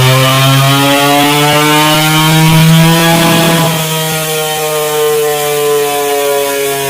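Honda CBR250RR's parallel-twin engine running loud at high, fairly steady revs on a chassis dynamometer, its pitch climbing slightly and then easing after about three seconds.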